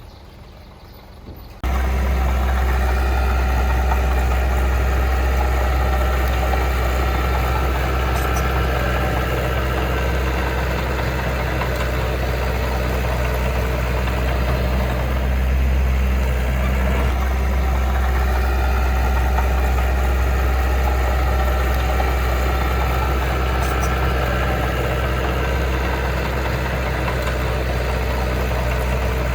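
Heavy diesel engine of earthmoving equipment running steadily with a strong low hum. It cuts in suddenly and loud about two seconds in, after a quieter stretch.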